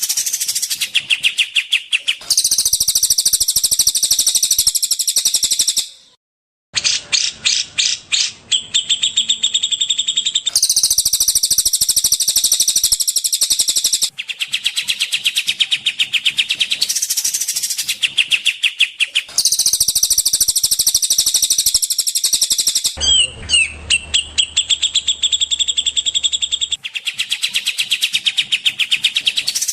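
Recorded songbird song looped for a masteran training track: fast, high-pitched trilling phrases a few seconds long, spliced end to end with abrupt changes. There is a brief dead gap about six seconds in.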